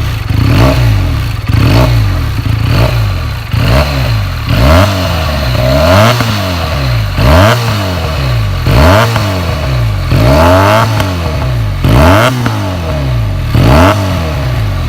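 Benelli 302R's 300cc parallel-twin engine revved in repeated throttle blips, about one every second or so, the pitch rising and falling with each blip. It is loud throughout.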